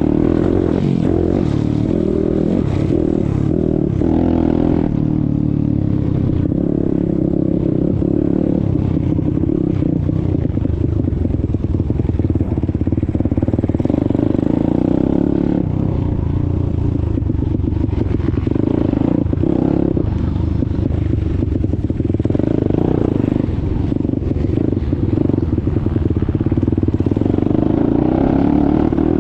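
Pit bike engine running hard under riding, its pitch rising and falling with throttle and gear changes several times, with some clatter from the bike.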